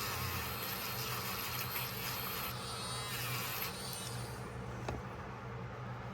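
Wire brush scrubbing the metal of a pocketknife, a scratchy hiss that stops about four seconds in, over a steady low hum.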